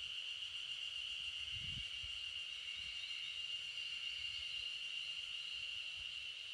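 A steady, unbroken chorus of insects shrilling at a high pitch, with a soft low bump about two seconds in.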